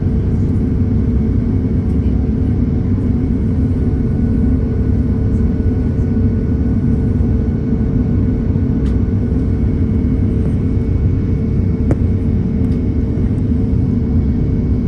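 Steady jet airliner engine noise heard inside the passenger cabin: a loud, even low rumble with a faint steady whine above it.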